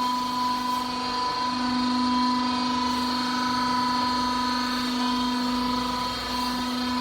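Hydraulic pump and motor of a double-cylinder vertical cardboard baler running with a steady pitched hum, wavering briefly about a second in.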